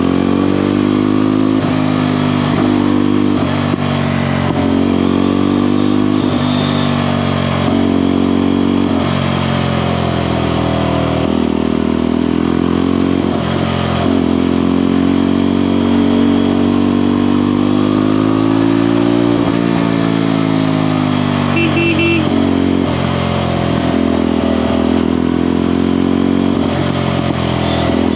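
Motorcycle engine and exhaust running under way, the revs repeatedly rising and falling with throttle and gear changes.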